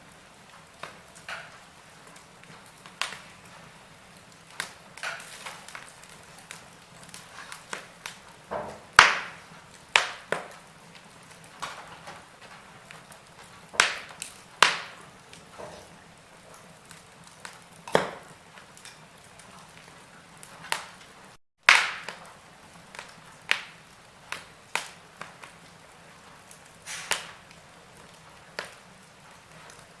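Wood fire burning in a fireplace, crackling with irregular sharp pops and snaps over a faint low hiss. The loudest pops come about nine seconds in and just after a brief cut-out in the sound past the middle.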